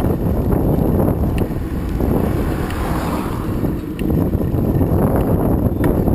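Heavy wind buffeting the microphone while riding along a road: a steady, dense low rumble with a few faint ticks.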